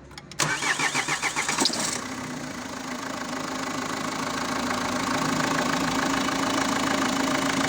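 Renault 1.9 dCi diesel engine cranked by its starter in quick pulses for about a second and a half, then catching and settling into a steady idle. It is running with no air filter fitted.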